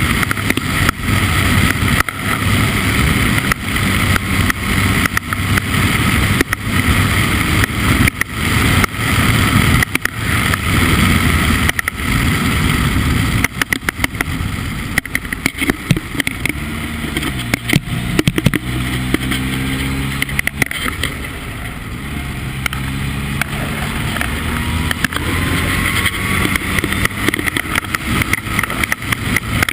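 Formula Ford race car engine running hard. Around the middle its pitch drops in several steps as it changes down, then climbs again as it accelerates.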